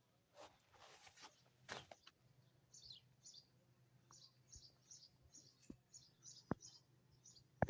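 A small bird chirping faintly, a dozen or so short high chirps in quick succession, with a few sharp clicks and a brief rustle.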